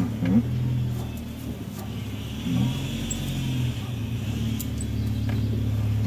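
A vehicle engine running steadily with a low hum, its pitch shifting briefly twice. Near the end come a few light clicks of bonsai scissors snipping privet twigs.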